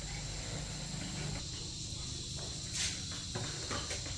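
Steady high-pitched insect trilling, typical of crickets, over a low hum, with a few light clicks in the second half.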